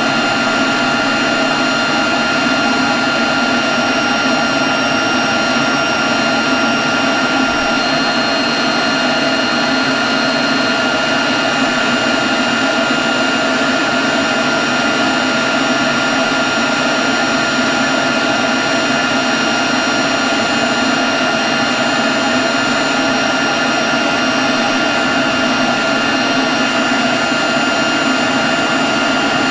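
Leaf blower running steadily at constant speed: a loud, even rush of air with a steady high whine over it.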